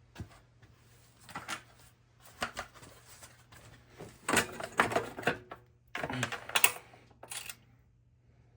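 Small metal hardware being handled: bolts and washers clicking and clattering in irregular bursts, busiest in the second half.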